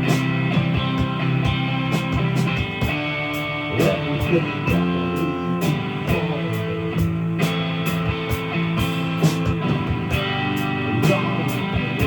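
A live rock band playing with guitar over a steady beat of drums and cymbals.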